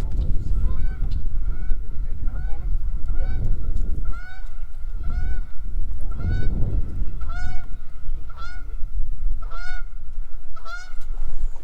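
A goose honking over and over, about one short honk a second, over a steady low rumble.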